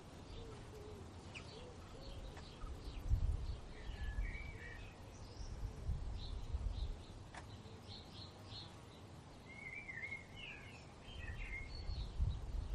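Small birds chirping, with two warbling song phrases, one about four seconds in and another around ten seconds. Bursts of low rumbling come and go underneath and are the loudest sound.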